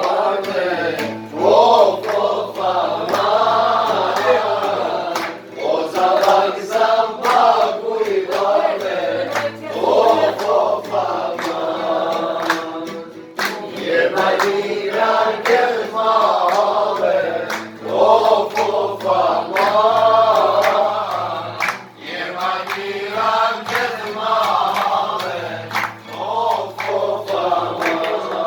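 Group of men singing together, with a steady low tone held underneath the voices.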